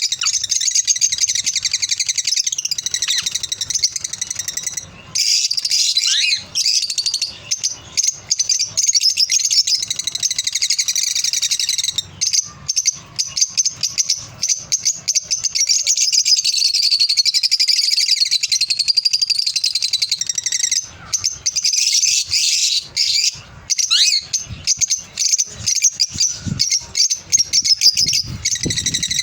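A group of small pet parrots, the kind kept as 'love birds', chattering and chirping in a dense, high-pitched chorus with a few brief pauses.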